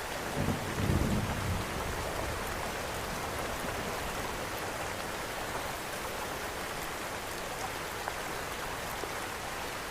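Steady rain mixed with a fireplace's faint, scattered crackles. A brief low rumble sounds about half a second in and fades after about a second.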